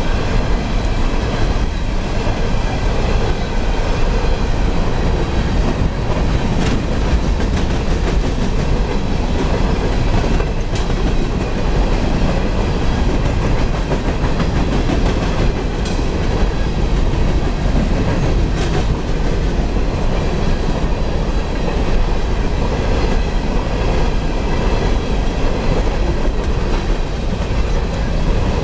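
Loaded-looking coal hopper cars of a CSX freight train rolling past close by: a steady rumble and rattle of wheels and car bodies, with occasional sharp clicks from the wheels on the track.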